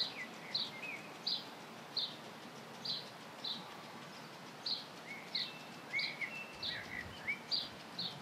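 A bird repeating a short, high call at a steady pace of about one and a half a second, with a few lower chirps from other birds mixed in, mostly in the second half.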